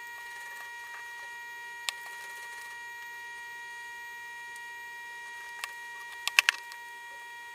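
Hot air rework station blowing with its nozzle removed, a steady whine of several even tones, heating a phone's glass back cover to soften the adhesive. A single sharp click about two seconds in and a quick run of clicks near the end.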